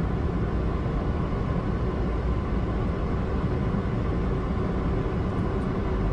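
Steady rush of airflow and engine noise heard on a Boeing 737-800's flight deck during final approach, with a faint steady hum.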